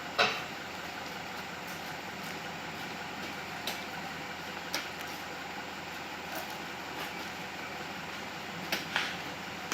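Steady running noise of a truck engine, with a few sharp knocks: the loudest just after the start, two more in the middle, and a quick pair near the end.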